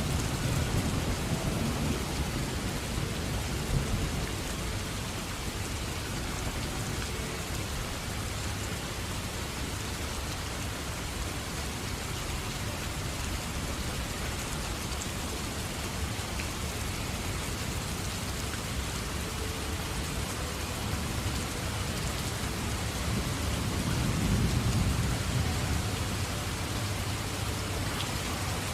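Steady rain falling, with low rolling thunder dying away over the first few seconds. A second rumble of thunder swells and fades about three-quarters of the way through.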